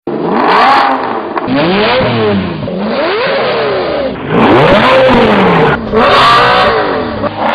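Supercar engines revving hard, their pitch climbing and dropping again and again, about six times in a row.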